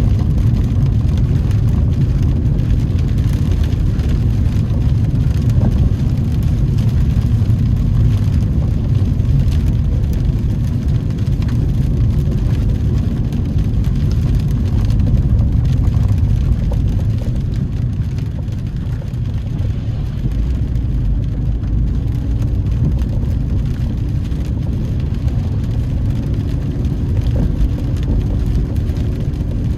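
Car cabin noise while driving on a wet road: a steady low rumble of engine and tyres, easing slightly about two-thirds of the way through.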